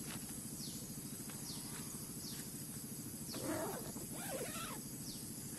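Wild animals calling in a forest: a steady low pulsing chorus, with high falling chirps about once a second. A louder, rougher call comes a little past the middle.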